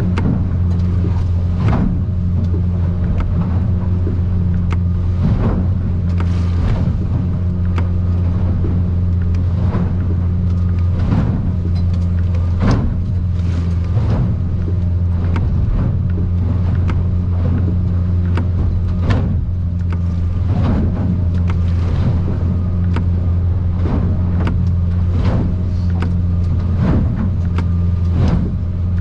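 Outboard-powered aluminium boat heard from inside its cabin: a steady engine drone, with irregular knocks and slaps every second or two as the hull meets rough, closely spaced swells.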